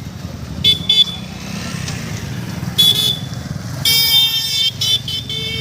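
Road vehicle horns honking in a string of shrill blasts: two quick toots, then longer ones, one held for nearly a second. Underneath is a steady low rumble of traffic.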